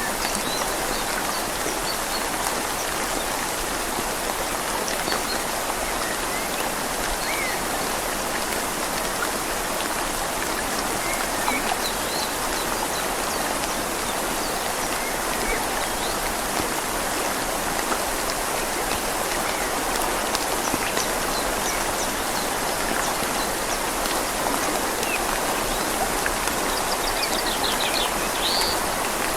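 Steady rain falling on leaves over a flowing river, an even, unbroken hiss of water. A few short high chirps come in near the end.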